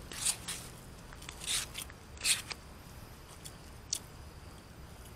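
Close-miked eating sounds: a few short, crunchy chewing noises in the first half, then a single sharp click near the end.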